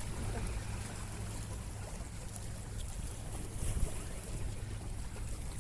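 Steady low rumble with an even hiss of wind and water, as heard out on a fishing boat.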